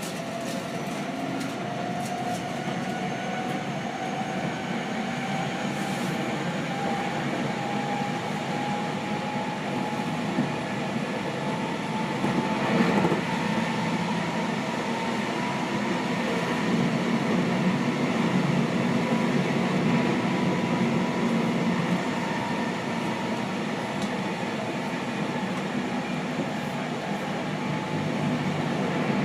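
Seibu 6000 series train's Hitachi GTO-VVVF inverter and traction motors whining, the pitch rising as the train accelerates and then holding steady, over steady rail running rumble heard inside the passenger car. A brief louder clatter comes about halfway through.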